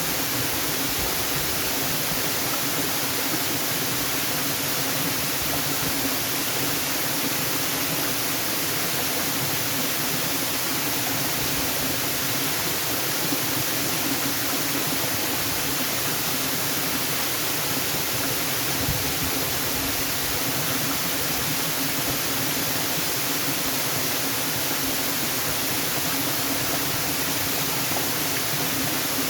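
Waterfall: a steady, unbroken rush of falling water that holds at an even level throughout.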